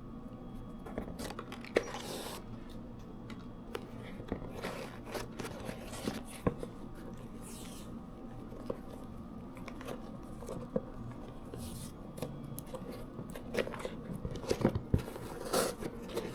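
Close handling noises: irregular small clicks, taps and rustles, busier near the end, over a faint steady hum.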